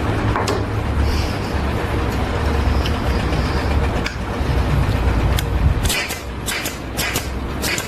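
A heavy vehicle's engine rumbling low and steady, fading about six seconds in, with a run of sharp clicks and knocks near the end.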